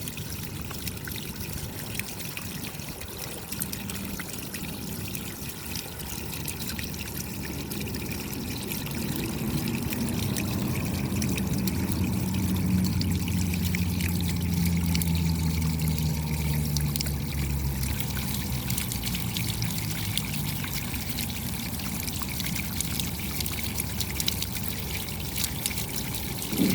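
Steady rain with many small drop patters and running, trickling water. A low hum swells in about a third of the way through and fades out again by about two-thirds, and there is a short low thump at the very end.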